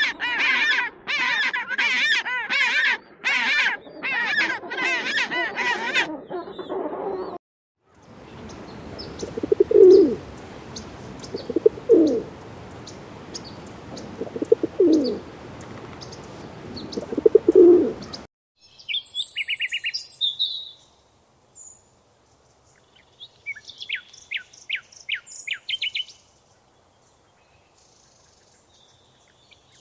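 A sequence of bird calls: first a series of loud, repeated honking calls; then four low coos over a hiss; then short high chirps and trills.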